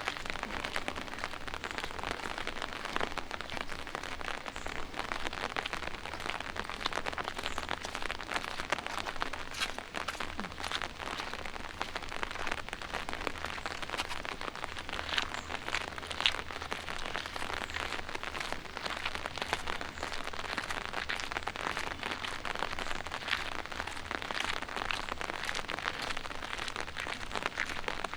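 Light rain falling: a steady, dense patter of small drops, with a few louder single drips standing out now and then.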